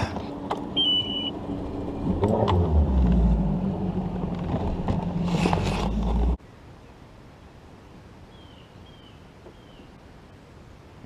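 Bass boat's outboard motor running, with a rumble that builds about two seconds in and then cuts off abruptly about six seconds in. After that there is a faint quiet background with a few short, high chirps.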